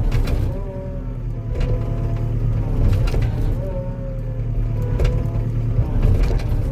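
Skid steer's engine running hard with a whine that wavers in pitch, as the machine pushes against trees to uproot them, with a few short knocks along the way.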